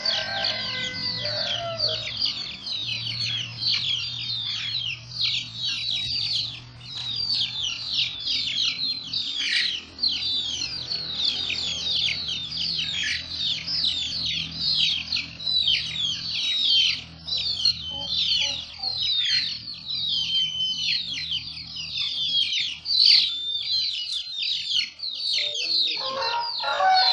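Many birds chirping at once, a dense, continuous stream of quick, high, downward-sliding calls overlapping one another, over a faint low steady hum.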